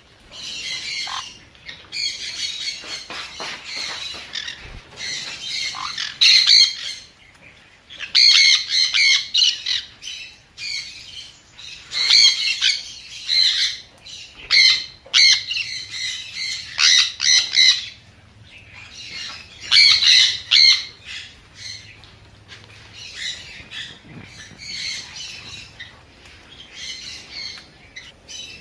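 Sun conure squawking: harsh, high screeching calls in repeated bouts of a second or two, with short pauses between.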